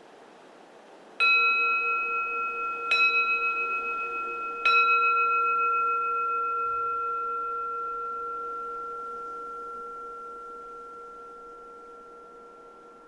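A keisu, a Zen Buddhist bowl bell, struck three times in quick succession, each strike adding to a long, wavering ring that fades slowly away. A faint wind hiss lies underneath.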